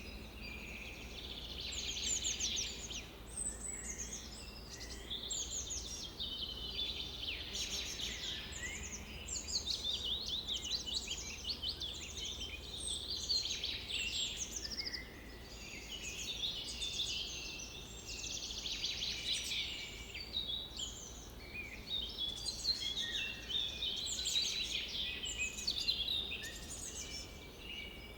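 Several birds singing and calling over one another throughout, a dense chorus of quick chirps and trills, over a steady low hum.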